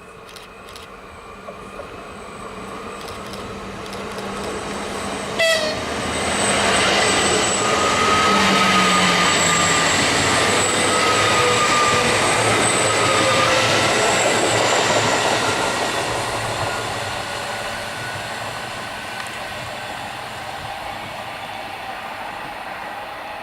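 Škoda 16Ev electric multiple unit approaching and running close by, its rumble of wheels on rail carrying steady electric whining tones that drop in pitch as it goes past. It is loudest for several seconds in the middle and then fades away. A brief sharp sound comes a little before it reaches its loudest.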